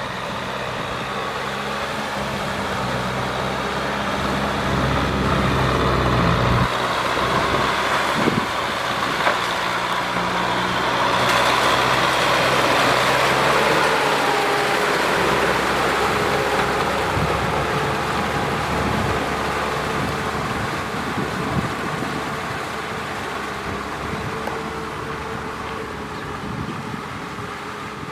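Kubota M6040SU tractor's diesel engine running under load. A steady low hum changes about six seconds in, then gives way to a rougher, noisier sound that is loudest in the middle.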